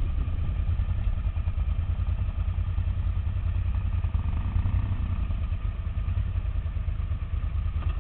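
Off-road motorcycle engine idling steadily with a low, rough rumble.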